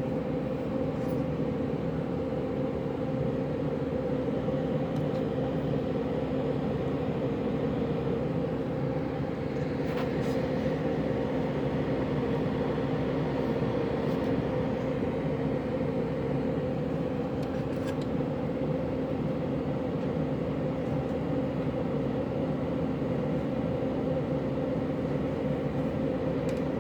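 Air conditioner and heat unit running in heat mode. Its fan blows over the electric heating coil with a steady hum and a few faint ticks. The thermostat has been turned down, but the coil has not yet clicked off.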